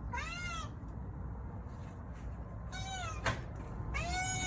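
Stray cat meowing three times, the last meow long and drawn out. A single sharp click sounds between the second and third meows.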